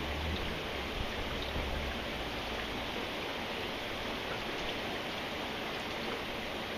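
Steady rain falling, an even hiss with scattered faint drop ticks. A low rumble sits underneath for the first two seconds.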